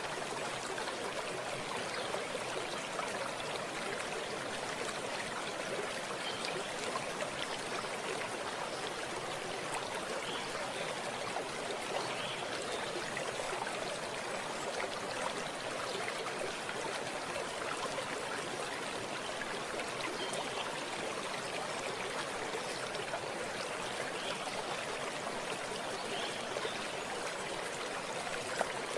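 Stream water running steadily over stones, a constant rushing with small bubbling splashes.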